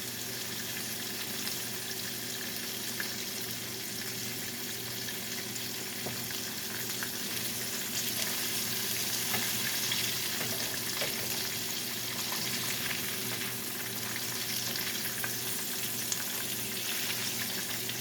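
Salmon frying in a skillet: a steady sizzle with small crackles and pops. A faint steady low hum runs underneath.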